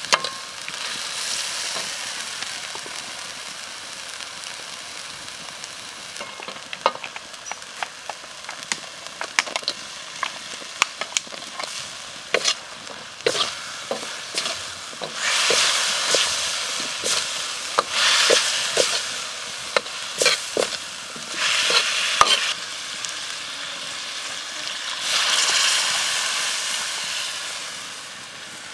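Chili paste and aromatics frying in oil in a steel wok, with a steady sizzle and frequent clicks and scrapes of a metal ladle stirring against the pan. In the second half the sizzling surges louder several times.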